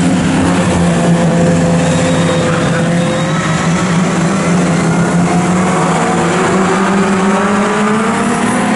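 Historic touring car race engines running hard at high revs, their pitch climbing gradually in the second half as the cars accelerate.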